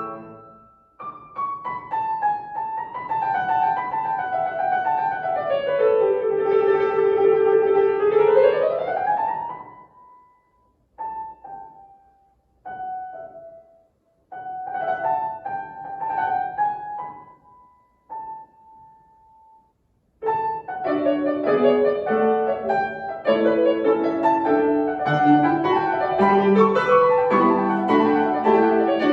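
Solo piano playing classical music. In the first ten seconds a fast run sweeps down and back up; then come a few isolated notes and short phrases separated by brief silences, and fuller, denser playing resumes about twenty seconds in.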